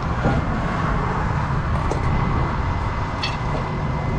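Steady rumble of road traffic and engines, with a few faint light clicks over it.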